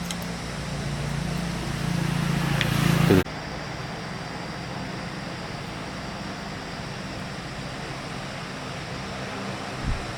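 Small generator engine running, growing louder for about three seconds and then stopping abruptly, after which a steadier, quieter mechanical hum continues; a short thump near the end.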